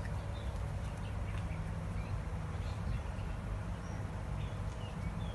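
Steady low background rumble with a few short, scattered bird chirps.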